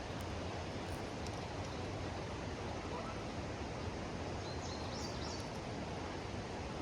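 Steady rushing of river rapids, an even wash of water noise, with a few faint high chirps about five seconds in.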